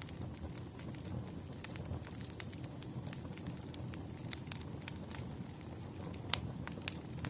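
Burning firewood crackling: irregular sharp pops and snaps over a low steady rumble, with one louder crack about six seconds in.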